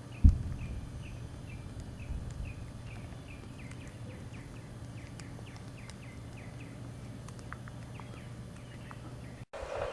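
A bird calling a steady series of short, down-slurred high notes, about two a second. There is a single low thump just after the start.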